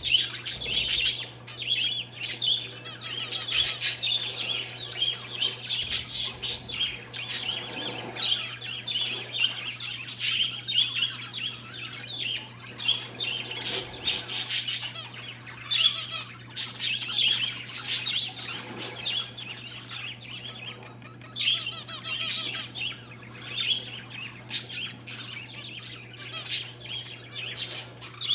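A flock of caged parakeets and zebra finches chirping continuously, many short calls overlapping, over a steady low hum.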